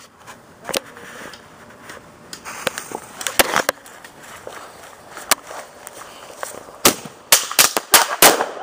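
Small firecrackers popping one after another at uneven intervals, a dozen or so sharp bangs, coming faster in the last couple of seconds.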